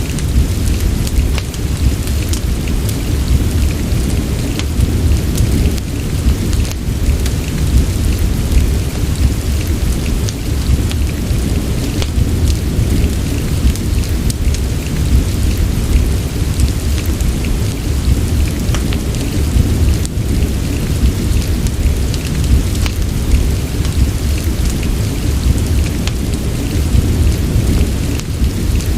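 Steady rain mixed with a crackling fireplace, as a sleep ambience. A constant deep rumble sits under the rain's patter, and many small sharp crackles and ticks are scattered throughout.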